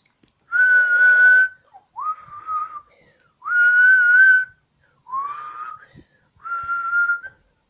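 A person whistling a short tune by mouth: five breathy notes at a middling-high pitch, each about half a second to a second long, several sliding up into the note.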